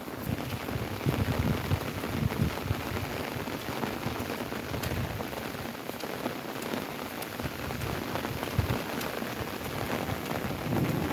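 Steady rain falling, a dense mass of drops hitting a surface.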